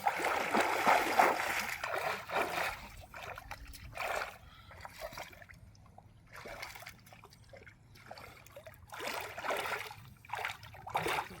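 River water splashing and dribbling in repeated bursts, heaviest over the first two and a half seconds, then in shorter splashes separated by quieter gaps.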